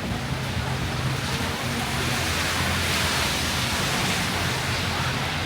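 Heavy rain falling on a city street, a steady hiss that swells louder for a couple of seconds in the middle, over a low steady engine hum.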